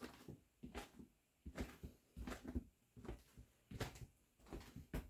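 Footsteps of a person walking at a steady pace: soft thuds about every three-quarters of a second.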